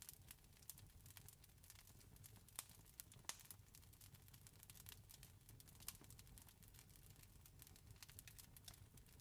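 Faint campfire crackling: irregular sharp pops and snaps, a few louder ones in the middle, over a steady low rumble.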